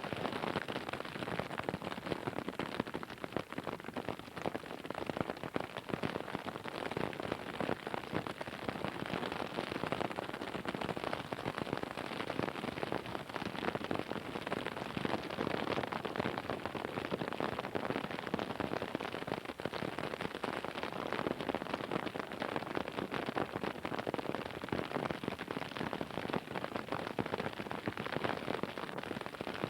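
Heavy rain pelting down on a surface: a dense, steady patter of drops.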